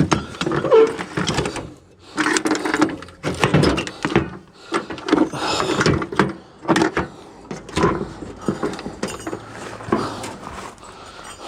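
Irregular knocks, clunks and clatter of sawmill gear being handled and moved.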